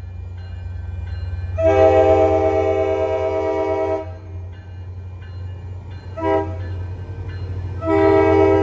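MBTA commuter-rail locomotive's multi-note air horn sounding the grade-crossing pattern: a long blast about one and a half seconds in, a short blast past six seconds, and another long blast starting near the end. A steady low rumble of the train runs under it.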